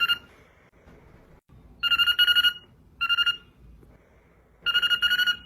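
Parrot mimicking a telephone ring: a pulsing, trilling ring in short bursts, three full rings at uneven intervals after one that ends right at the start.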